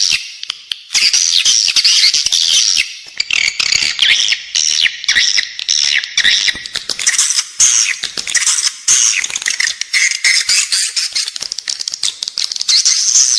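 Recorded calls of edible-nest swiftlets: a dense chorus of rapid, high twittering chirps with brief dips about half a second in and about three seconds in. This is the indoor call track used to lure swiftlets into a nest house.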